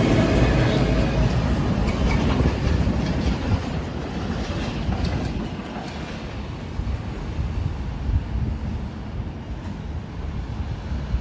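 PATH Kawasaki PA5 rapid-transit train pulling out of the station, its wheels clicking over the rail joints. The rumble fades away over the first half as the train leaves.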